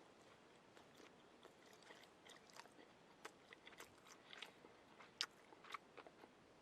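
Faint eating sounds while eating sushi: scattered small clicks and taps with chewing, the sharpest click a little after five seconds in.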